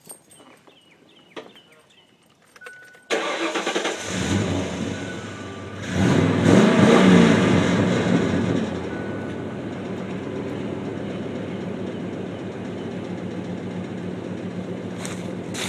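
1998 Mercury Mountaineer with a MAC Performance aftermarket exhaust starting up about three seconds in. It gives a short rev that rises and falls back, then settles into a steady idle.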